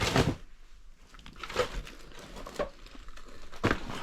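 Footsteps crunching over debris on an old floor, about one step a second.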